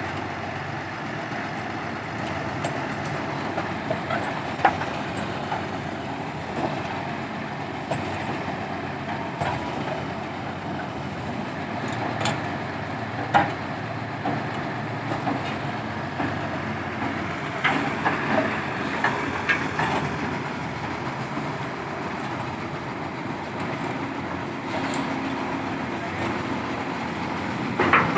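Heavy diesel machinery running steadily, with scattered metallic clanks and knocks throughout.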